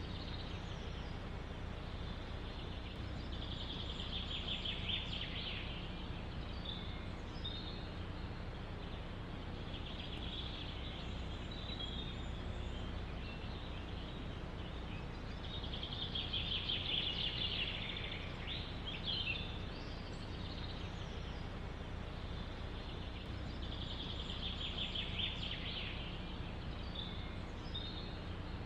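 A songbird repeats a rapid trilling song phrase about every six or seven seconds, with other short chirps between, over a steady rush of wind through forest trees.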